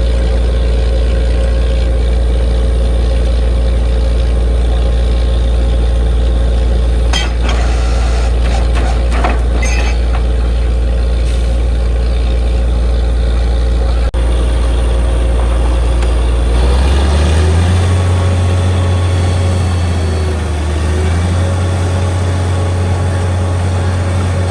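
Borewell drilling rig's heavy diesel engine running steadily under load. A few metal clinks come near the middle, and about two-thirds of the way through the engine note rises, dips briefly, then holds at the higher pitch.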